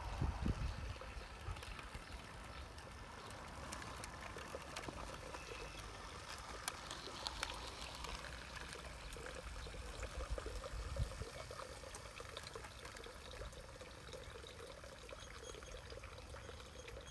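Steady trickling of running water, with a few faint clicks.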